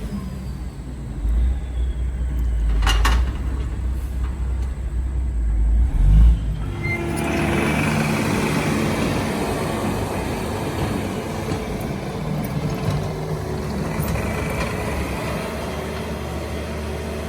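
Heavy earth-moving machinery running, a deep rumble that about seven seconds in gives way to a broader, noisier mechanical sound.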